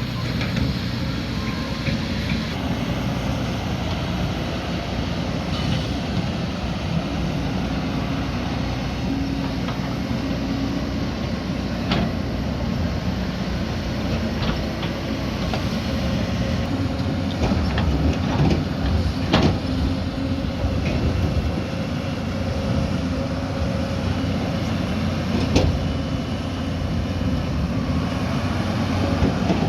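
Diesel engine of a heavy earthmoving machine running steadily under work. A few sharp knocks cut through it, most of them a little past the middle.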